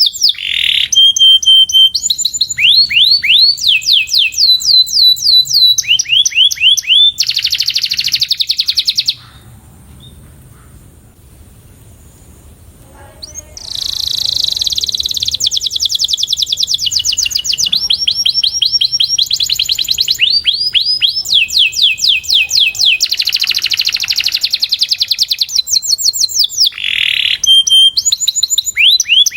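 Domestic canary singing in fast runs of rapidly repeated notes, each run at a different pitch. The song breaks off for about four seconds a little before the middle, then carries on.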